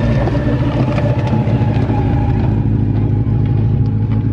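Car engines running close by, a loud steady low drone.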